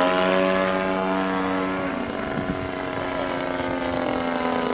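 Radio-controlled model airplane's motor and propeller buzzing steadily in flight, holding one pitch and dropping a little in level about two seconds in.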